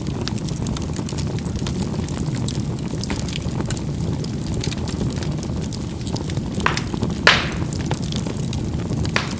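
Charcoal burning in a fireplace: a steady low rumble of flame with constant small crackles. A few sharper pops of the charcoal bursting come near the end, the loudest a bit over seven seconds in.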